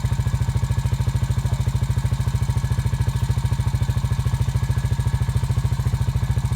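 Off-road vehicle engine running steadily at an even idle, a fast regular low pulsing with no revving.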